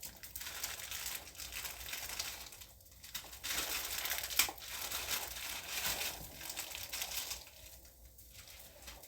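Irregular crinkling and rustling, coming and going in patches, with one sharp crackle about four and a half seconds in.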